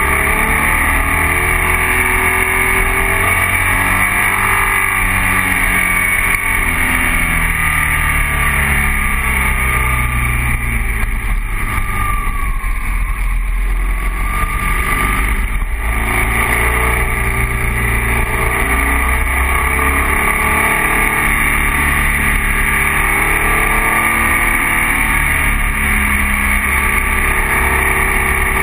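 BMW R1200 boxer-twin motorcycle engine under way, its pitch rising and falling with the throttle through the bends, over a steady rush of wind and road noise on the microphone.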